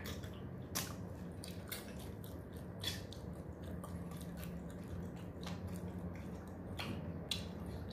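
Quiet eating by hand: chewing mutton leg paya and chapatti, with soft wet clicks and smacks scattered every second or so. A steady low hum runs underneath.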